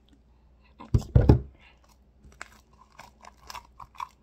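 Sticky fluffy slime made from white glue and shaving cream being squished and pulled by hand: a loud wet squish about a second in, then a run of small sticky pops and clicks. The slime is still too sticky, clinging to the hands.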